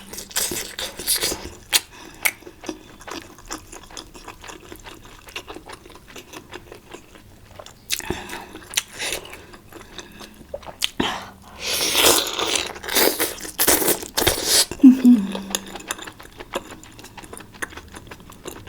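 Clicks, taps and rustles of food and utensils being handled during meal preparation, with a louder stretch of scraping and rustling from about twelve to fourteen and a half seconds in.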